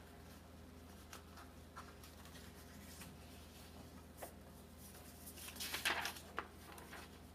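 A sheet of paper being folded in half: faint rustles and light scrapes, with a louder run of crinkling and creasing about five and a half to six and a half seconds in.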